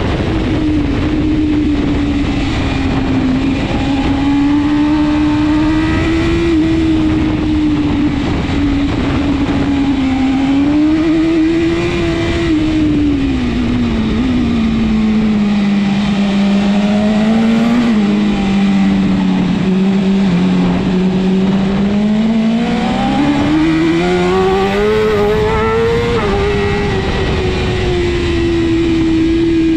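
BMW S1000RR superbike's inline-four engine running hard at racing speed, its pitch rising and falling as the throttle opens and closes. About halfway through it drops and holds low for several seconds, then climbs again near the end.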